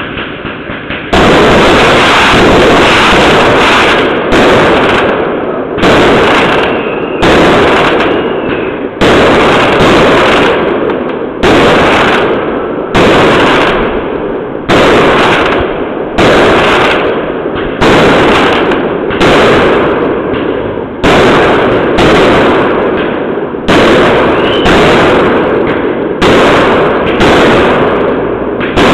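A continuous, very loud barrage of fireworks: dense crackling bangs that overload the microphone, starting about a second in and surging afresh about every second and a half.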